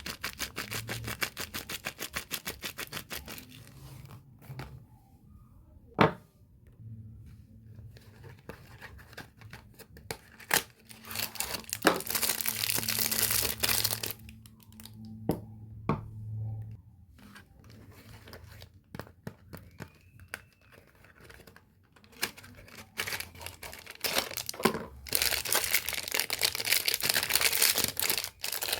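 Soap packaging being torn open and crinkled by hand: a quick run of short ripping strokes at first, a few sharp clicks, and two longer spells of tearing and rustling of the wrapper.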